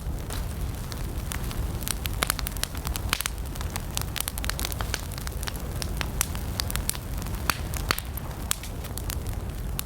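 Wood campfire burning: a steady low rumble of flames with frequent sharp, irregular crackles and pops from the burning wood.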